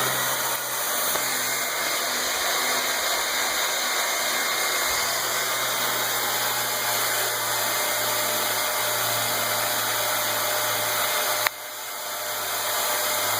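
Hand-held hair dryer running steadily, blowing air with a constant hum underneath. About eleven and a half seconds in there is a click and the sound drops suddenly, then builds back up to full.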